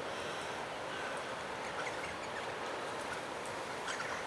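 Steady rushing background noise of rough water from the nearby lake, with a couple of faint, brief bird chirps.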